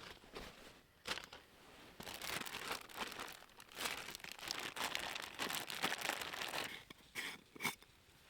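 Crinkly rustling and crumpling of something being handled, made of many small crackles. It is densest from about two seconds in until nearly seven seconds, with a couple of sharper clicks near the end.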